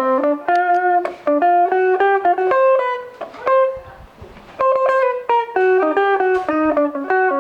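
Guitar played through a Marshall MS-2 mini amp: a picked melody of separate single notes, with a short pause about halfway through.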